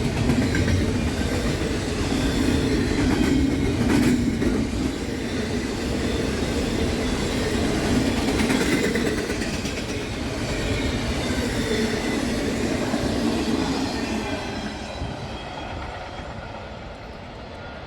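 Freight train cars rolling past on the rails, a steady clatter of wheels with faint squealing. The sound fades over the last few seconds as the end of the train goes by.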